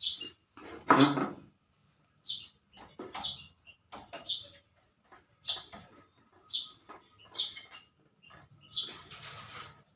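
A small bird chirping repeatedly, short high calls about once a second, with a couple of louder rustling or handling noises among them.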